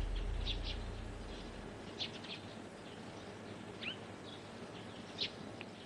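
Faint, scattered bird chirps, a few short high calls a second or more apart, over a low rumble that fades away in the first second and a half.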